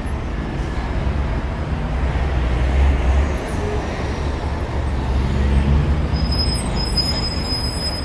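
City street traffic ambience: a steady low rumble of vehicle engines and passing traffic.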